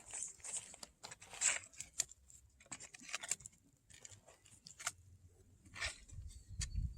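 Driftwood campfire crackling, with irregular sharp snaps scattered through it. A low rumble comes in near the end.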